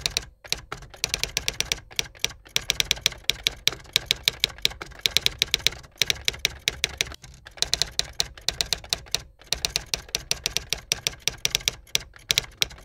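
Typewriter sound effect: rapid runs of key strikes, several a second, broken by short pauses every second or two.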